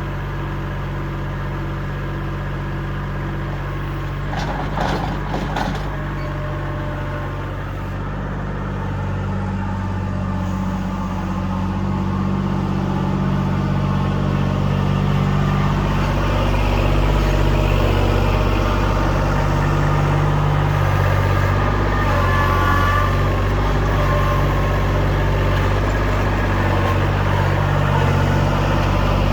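Diesel engine running steadily, growing louder about halfway through as the revs or load come up. A brief clatter comes about five seconds in.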